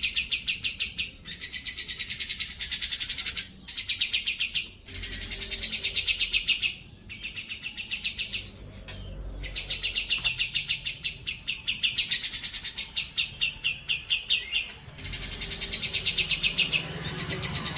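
Grey-cheeked bulbul (cucak jenggot) singing: a string of fast, high trilling phrases of rapidly repeated notes, each one to two seconds long, with short breaks between them.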